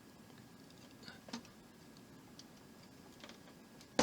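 Faint small clicks and taps of hands handling a plastic model part and a small wire connector, with one sharp click at the very end as the battery lead's plug is pushed home into its socket.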